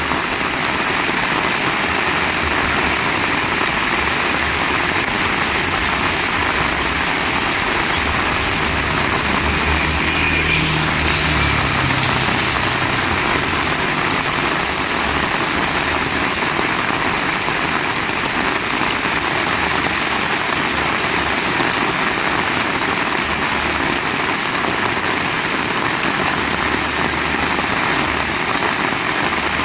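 Heavy rain falling steadily, a dense even hiss. A low engine hum swells briefly around the middle and fades again.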